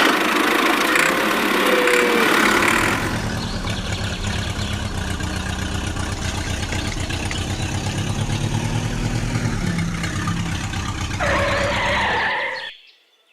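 Cattle lowing for the first few seconds, then a small engine running steadily with a fast, even beat, which cuts off suddenly near the end.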